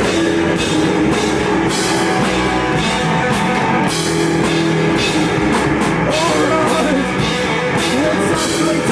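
Live rock band playing loud: a drum kit with regular snare and cymbal hits over electric guitar, with a voice singing over it in the second half.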